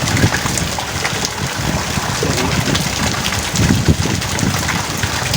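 Heavy rain falling steadily with strong gusting wind, the wind swelling into deeper rushes just after the start and again around three and a half seconds in.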